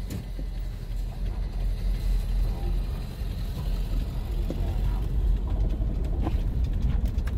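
A motor vehicle running, a steady low rumble with no rise or fall of revving, with faint voices in the background.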